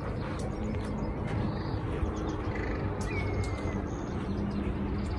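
A bird calls once about three seconds in, a short thin note sliding downward, over a steady low outdoor background hum, with scattered light clicks.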